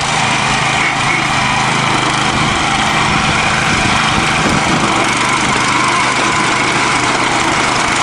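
Small single-cylinder garden-tractor engine running steadily during a tractor tug of war, its note wavering slightly around the middle.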